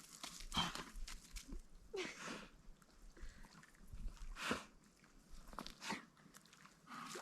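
A dog chewing on a wooden stick: faint, irregular crunches and gnawing sounds.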